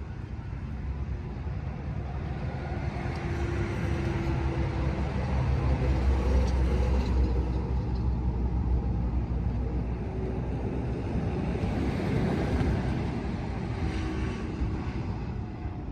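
A low outdoor rumble, heaviest in the bass, that swells about six seconds in and again about twelve seconds in.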